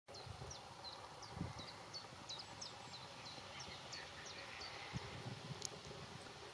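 A bird calling with a quick series of short, high, downward-sliding notes, about three a second, stopping a little before the end. Underneath is a faint steady outdoor hiss with a couple of low thumps and one sharp click.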